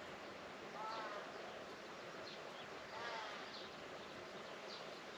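Outdoor farm ambience with a steady background hiss and an animal call, most likely a bird, repeated about every two seconds, along with fainter short high chirps.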